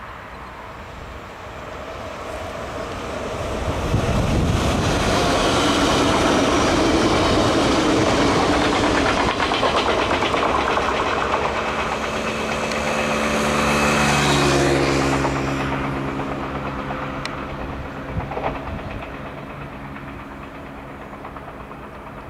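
NS VIRM double-deck electric train passing: the running noise of wheels on rails builds over the first few seconds and stays loud for about ten seconds. Its steady tones then drop in pitch as it goes by and fades away.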